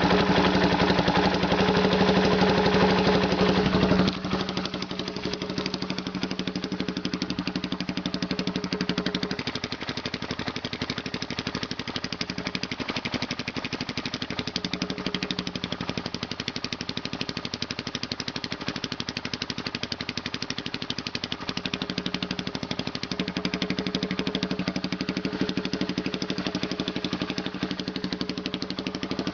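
1974 Honda XL175's single-cylinder four-stroke engine running through a home-bent exhaust pipe of 1-inch EMT electrical conduit, which gives it a higher note than a stock pipe. It is louder for about the first four seconds, then settles and runs steadily at a lower level.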